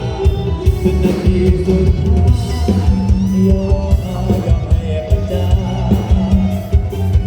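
A live band playing a luk thung song, with a drum kit beat and bass.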